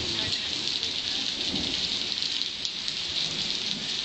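Heavy rain pouring onto a flooded street and pavement, a dense steady hiss, with low rumbles of thunder underneath.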